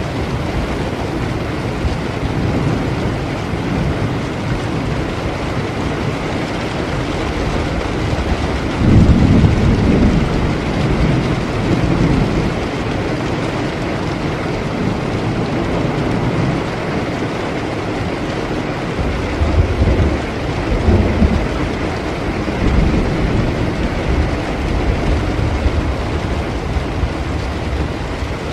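Steady rain falling, with thunder rumbling low twice: the louder roll about nine seconds in and a second one around twenty seconds in.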